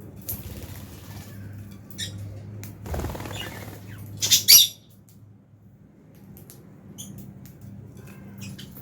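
Lovebirds chirping and squawking in short scattered bursts, with a rustle of wing flapping about three seconds in and a loud burst of shrill calls a second later.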